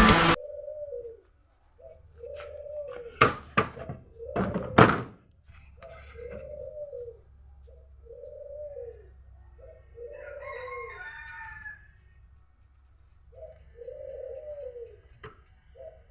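A dove cooing over and over, short arched coos about one a second with a brief pause near the end. A few sharp knocks come about three to five seconds in, and a higher chirping briefly joins the coos past the middle.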